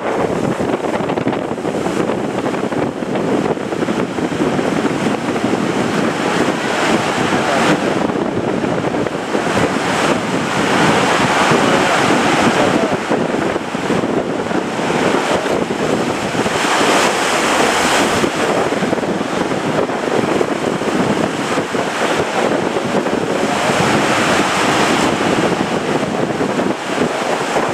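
Surf breaking, with wind blowing on the microphone. The waves swell louder three times.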